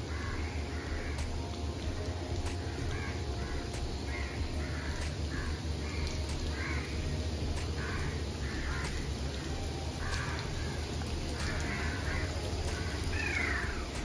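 Birds calling over and over in short calls, about one or two a second, with one falling call near the end. A steady low rumble runs underneath.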